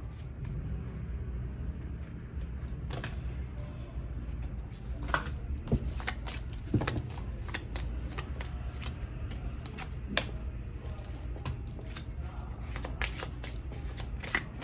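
Tarot cards being handled and shuffled by hand: a run of soft, irregular clicks and snaps of card stock over a low steady room hum.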